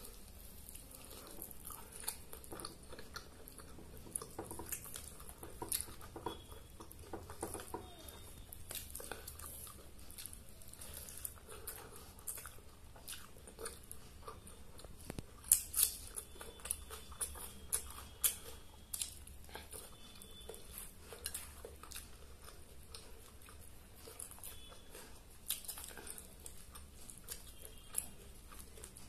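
A person chewing and biting chicken and rice eaten by hand, with many short wet clicks and smacks throughout; a cluster of sharper clicks about halfway through is the loudest.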